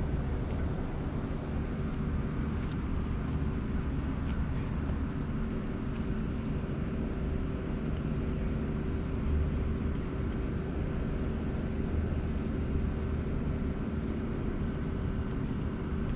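A steady low outdoor rumble with a faint, even hum over it, unchanging throughout.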